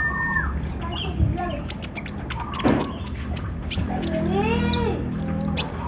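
Kolibri ninja (konin), a small songbird, singing a rapid, varied song: a whistled note at the start, then many short sharp chirps and clicks, with a drawn-out arching call about four seconds in.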